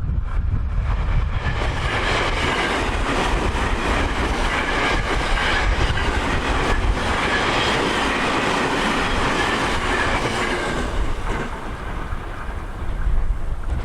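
Tokyo Metro 08 series electric train running past, its noise building over the first couple of seconds and fading away about three-quarters of the way through. Low wind buffeting on the microphone is strongest before and after the train.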